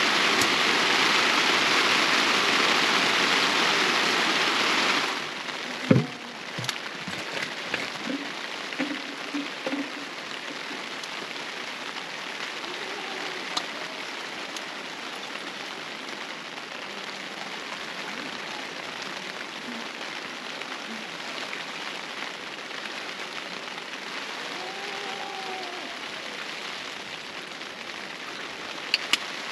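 Loud steady rush of water that cuts off abruptly about five seconds in, followed by a thump, then a softer steady patter of water with scattered light knocks.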